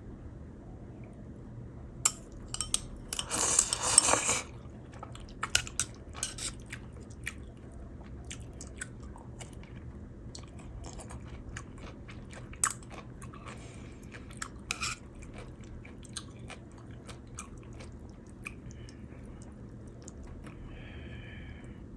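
A person chewing and biting food close to the microphone, with a loud crunchy bite about three seconds in and scattered small crunches and clicks after it, over a steady low hum.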